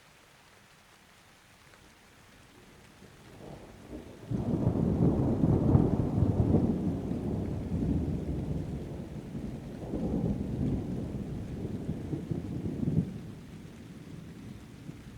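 A long roll of thunder that builds from a low rumble about three seconds in and turns loud a second later. It rolls on with a second swell about halfway through, then fades away near the end.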